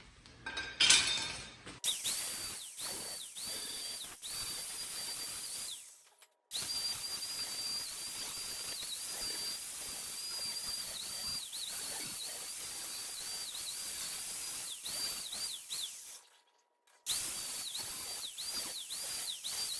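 Electric grinder cleaning steel to bare metal: a high, steady motor whine with a hiss of abrasion, its pitch dipping each time the tool is pressed into the metal. It runs in three stretches, stopping briefly twice.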